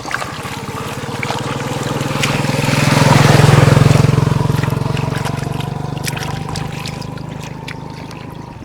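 A small boat engine running steadily. It swells to its loudest about three to four seconds in, then fades away.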